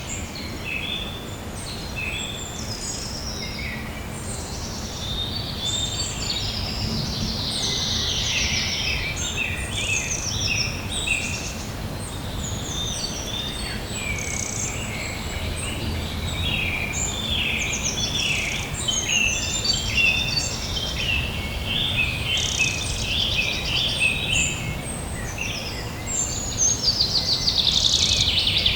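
Many small birds chirping and singing at once, a dense run of short calls and trills that grows busier near the end, over a steady low outdoor rumble.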